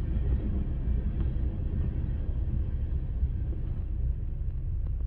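Steady low rumble of a Florida East Coast Railway freight train's cars rolling through a grade crossing, heard muffled from inside a stopped car.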